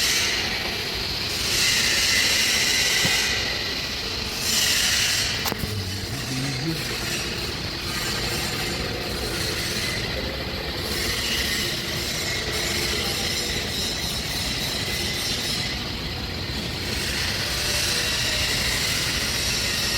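TIG welding arc on stainless steel pipe, a steady hissing buzz whose upper hiss swells and fades every few seconds, with one sharp click about five and a half seconds in.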